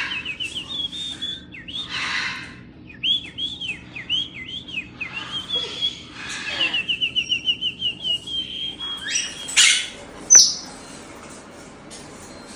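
Pet parrots whistling and chirping: strings of rising-and-falling whistled notes, a fast run of short chirps, harsh hissy calls in between, and one loud sharp call about ten seconds in.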